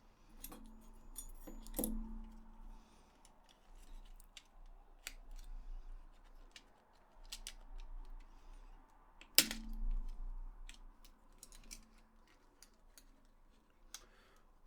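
Scattered light clicks and taps of small plastic parts and tools being handled while taking apart a DualShock 4 controller, with one sharp click about nine seconds in.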